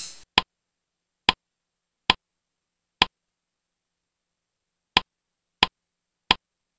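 A slideshow's click sound effect: seven short, sharp ticks at uneven spacing, with dead silence between them, each marking a new item appearing on the slide.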